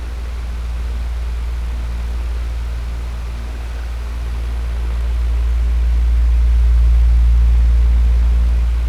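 Electric fan running steadily: a low hum under an even airy hiss, swelling a little louder in the second half and easing again near the end.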